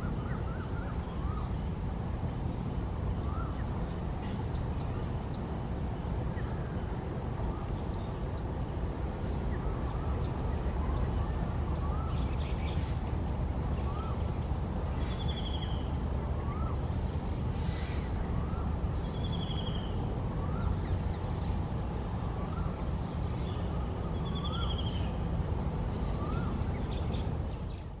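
Birds calling over a steady low rumble: one bird repeats a short rising whistle about every second and a half, with scattered high chirps and three short buzzy trills in the second half.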